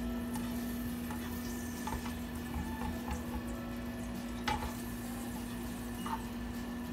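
Garlic sizzling in hot oil in a frying pan while a spoon stirs it, with occasional light clinks of the spoon on the pan, the sharpest about four and a half seconds in. A steady low hum runs underneath.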